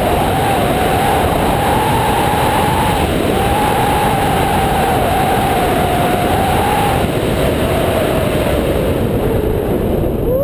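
Wind rushing over the microphone of a paraglider in flight: a loud, steady roar, with a wavering tone held above it that dips briefly about three seconds in and fades out in the last few seconds.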